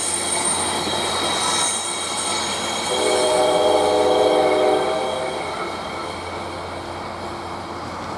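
Train passing with a steady high-pitched wheel squeal, and a multi-note chord air horn sounding one blast of about two seconds midway; the horn starts again right at the end.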